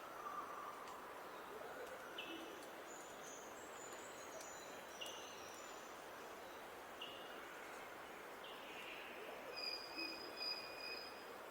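Wild songbirds calling over a steady outdoor hiss: a short call repeating every two seconds or so, thin high twittering a few seconds in, and a long, high, steady whistled note near the end.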